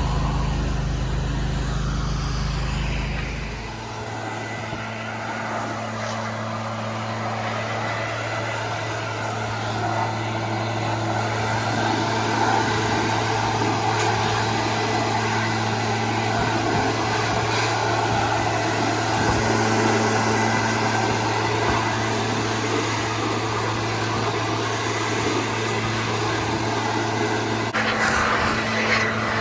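Pressure washer running steadily, a constant engine hum under the hiss of the spray. A deep rumble underneath drops away about four seconds in.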